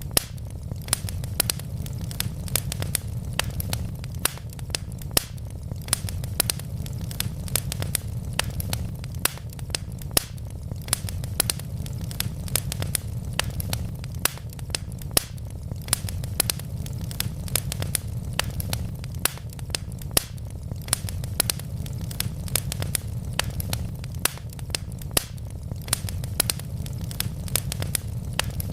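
Wood logs burning in a fireplace, crackling steadily with many sharp pops at irregular intervals over a low, even rumble of the flames.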